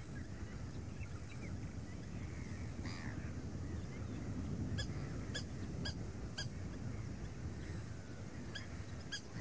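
Birds calling in short, clipped honking notes, in quick runs of three or four, over a steady low rumble.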